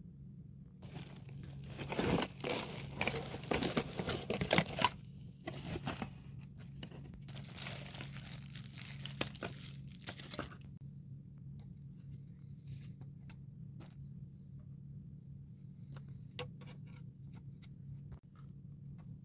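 Packaging crinkling and tearing as it is handled, most intense over the first ten seconds, then lighter scattered rustles and clicks.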